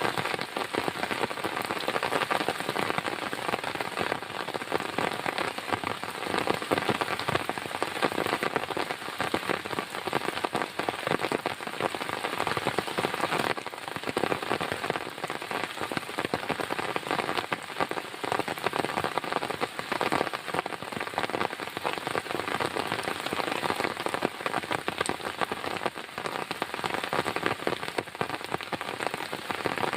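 Heavy rain falling steadily: a dense, continuous patter of drops.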